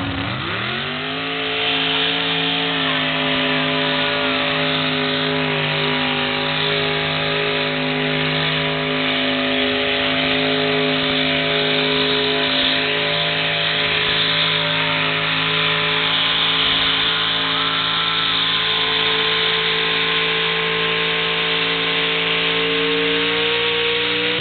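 Mud-racing truck's engine revving up sharply and then held at high revs under load through the mud pit, a steady high-pitched drone that climbs a little further near the end.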